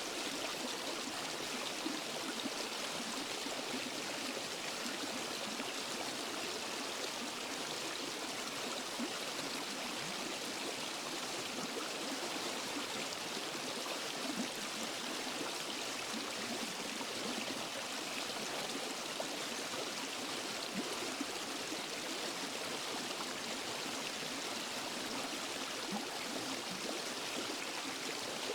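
Waterfall and forest stream flowing steadily: an even rush of water with small splashes and trickles.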